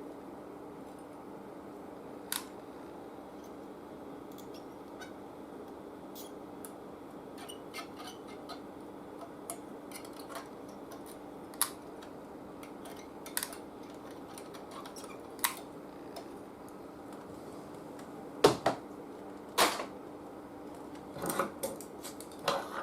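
Scattered small metallic clicks and taps of hand tools working on a vintage tube TV chassis, with several louder clicks over the last few seconds, over a faint steady hum.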